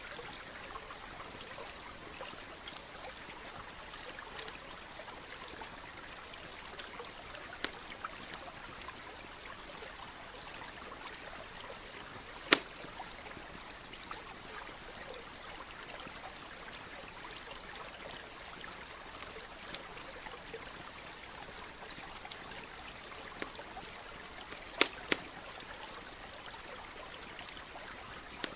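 Campfire crackling with scattered sharp pops, the loudest about twelve seconds in and a quick pair near the end, over a stream running steadily.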